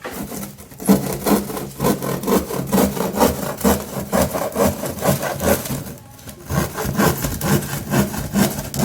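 Hand saw cutting plywood in quick back-and-forth strokes, about three a second, with a brief pause about six seconds in before the sawing resumes.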